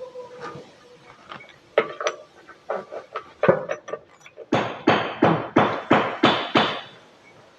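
A series of sharp knocks like hammer blows. Scattered lighter taps come first, then a run of seven even, heavier strikes about three a second near the end.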